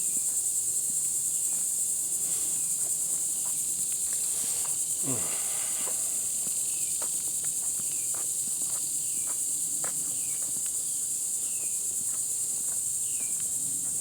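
Steady high-pitched insect chorus, with footsteps crunching on a trail. Short falling chirps repeat several times near the end.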